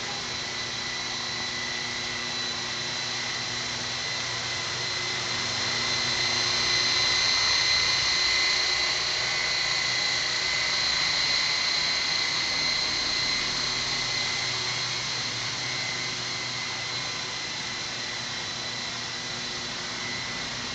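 Radio-controlled model helicopter in flight, its motor and rotors making a steady high whine. The whine grows louder over the first half as the model comes closer, then slowly fades.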